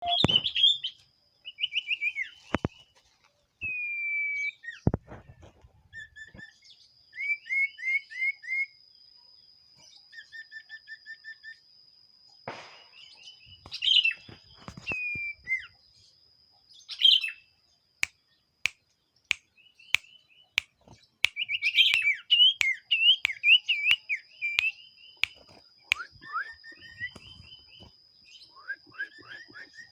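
Common iora (cipoh) in full song: varied chirps, slurred whistles and fast trills of repeated notes, over a steady thin high whine, with scattered sharp clicks.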